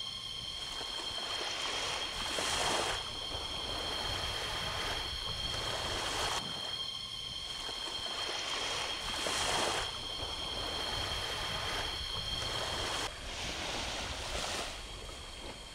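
Waves washing onto a shore, swelling and falling back about every three to four seconds. Under them runs a steady high-pitched whine made of several thin tones, which weakens near the end.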